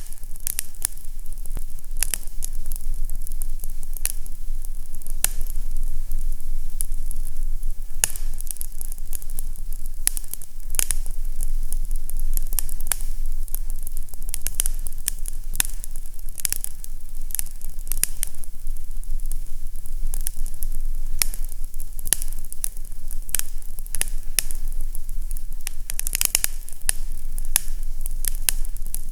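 Fireplace crackling: irregular snaps and pops over a steady low hum.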